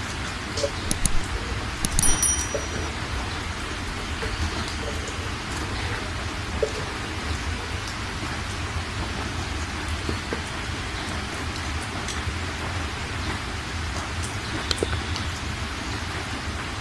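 Steady hiss of heavy rain with a low rumble beneath it. A few sharp clicks and a short metallic clink stand out about one and two seconds in.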